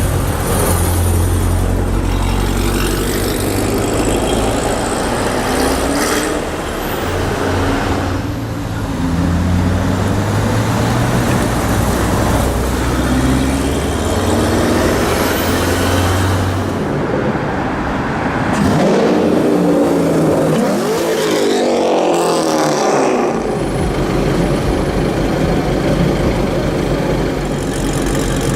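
Loud, deep rumble of drag-modified Corvette V8 engines running in traffic. About two-thirds of the way through, one accelerates hard, its pitch climbing over a few seconds, before the low rumble returns.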